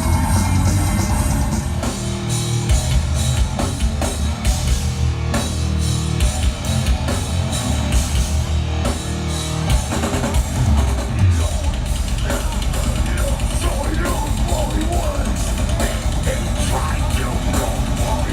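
Live heavy rock band playing loud through a PA: a pounding drum kit with bass drum, over bass and guitar. The low end changes about twelve seconds in.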